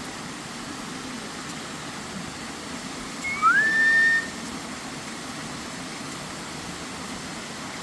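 Steady rush of the waterfall, with one whistle about three seconds in: a short high note, then a note that slides up and holds for about a second.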